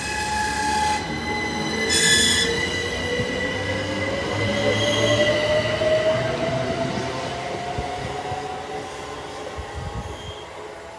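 A train running through a station, with a steady high squealing tone, a brief burst of shrill high tones about two seconds in, and a whine that rises slowly in pitch. It is loudest in the middle and fades away toward the end.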